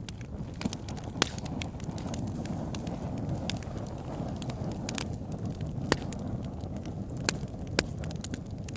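Wood fire burning in a fireplace: a steady low rumble of flames with scattered sharp crackles and pops, a few louder snaps standing out.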